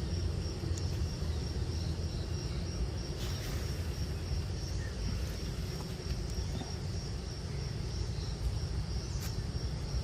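Outdoor ambience: a steady low rumble under a constant high-pitched insect drone, with a couple of faint clicks.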